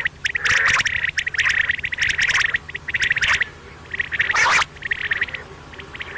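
Quail calling: rapid clicking, chattering trills in quick runs, with a louder harsh call about four and a half seconds in.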